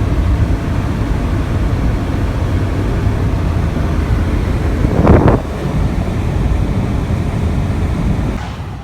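Steady road and wind noise of a car driving at speed, heavy low rumble with wind buffeting the microphone, and a brief louder rush about five seconds in.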